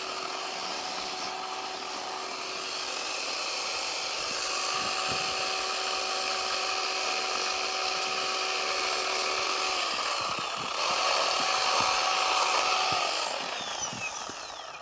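Chainsaw running at high revs while cutting into a block of packed snow. The engine note dips about ten seconds in, comes back louder, then falls away near the end.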